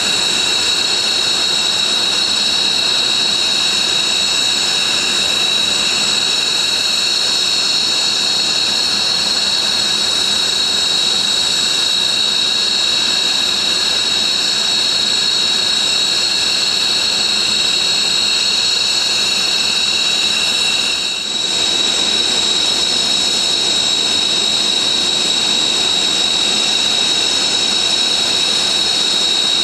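Military jet engines running on the ground, a steady high-pitched whine of several tones over a loud rushing noise. About two-thirds of the way through there is a brief dip, and one of the tones drops out.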